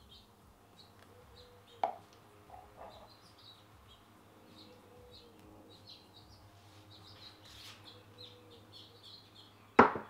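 Faint bird chirps throughout, with a single knock about two seconds in and a louder clunk near the end as a ceramic cup is set down on the counter.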